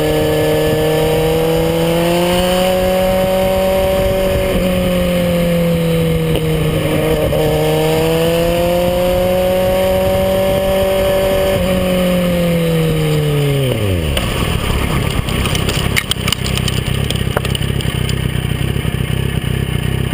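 Kawasaki Z800e's inline-four engine running under load, its pitch rising and falling. About fourteen seconds in, the engine note drops away steeply as it slows, leaving a rough rushing noise with scattered clattering knocks.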